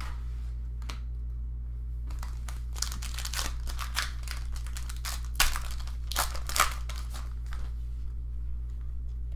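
Trading cards and their packaging being handled: a run of quick rustling, sliding strokes as cards are flipped and slid against one another, loudest a little past the middle, over a steady low hum.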